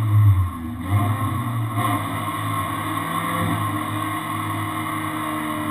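Renault Twingo R1 rally car's engine running at a steady, slightly raised idle while the car waits on the start line, heard from inside the cabin.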